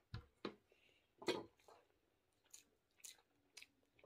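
Faint close-up chewing of a mouthful of rice and kangkong (water spinach), a string of short wet mouth clicks and smacks, the loudest about a second and a quarter in.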